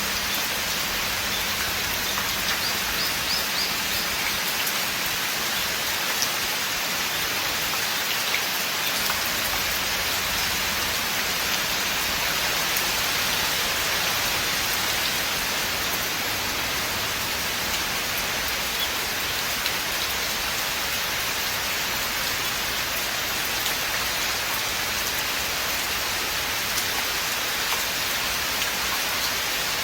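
Steady rain falling in a forest, an even hiss of many drops on leaves and ground.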